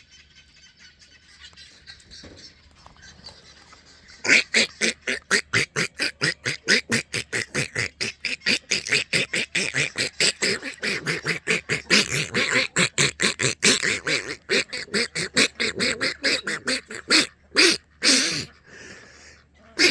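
Ducks quacking in a fast, steady run of short calls, about five a second, starting about four seconds in after a quieter stretch.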